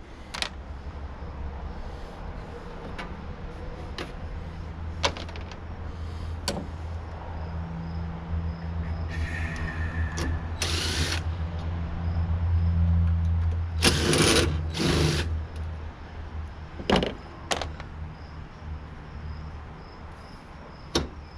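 Metal knocks and clanks of hand work on a tankless water heater's parts, with a few longer noisy bursts of tool work around the middle. Under them runs a steady low motor-like hum that grows louder, then fades.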